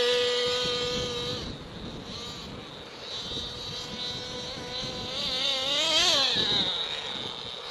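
Small .28 nitro engine of an RC monster truck running at a steady high pitch that fades over the first second or so as the truck moves off, then revving up and down sharply around five to six seconds in.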